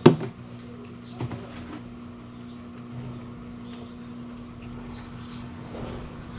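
A steady low machine hum, with a sharp knock right at the start and a softer knock about a second later.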